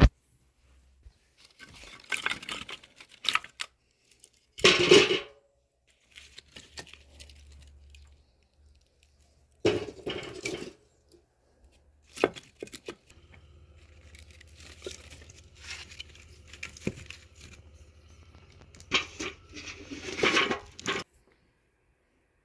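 Paper being torn and crumpled by hand in irregular bursts, typical of setting up kindling in a wood fireplace, with a faint low hum underneath part of it.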